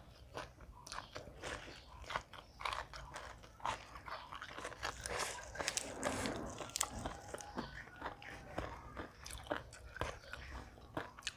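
Close-miked chewing: a person biting and crunching crisp food, with irregular crackly bites and wet mouth sounds.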